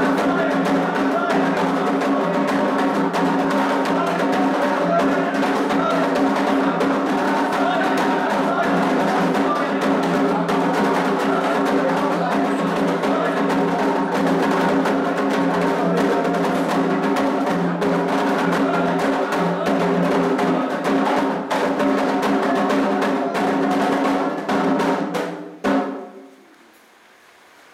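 Candomblé toque for Omolu: atabaque hand drums played in a fast, dense rhythm over steady sustained tones. The music stops abruptly about 25 seconds in.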